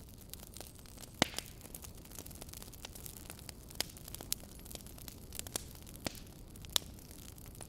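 Wood fire burning in a fireplace: logs crackling with irregular small snaps and a handful of louder pops, over a steady low rush of the flames.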